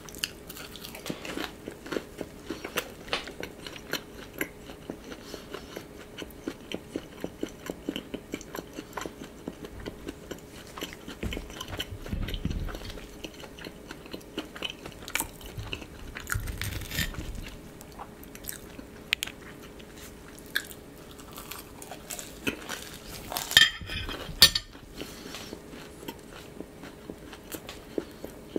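Close-up chewing and biting of a crispy croffle, croissant dough baked in a waffle maker, with many small crisp crunches. A couple of louder sharp clicks sound near the end.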